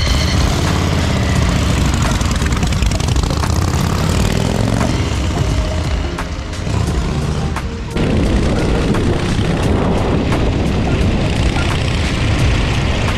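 1949 Harley-Davidson Panhead chopper's V-twin engine running, with music over it. The sound dips a little about six seconds in and comes back abruptly about eight seconds in.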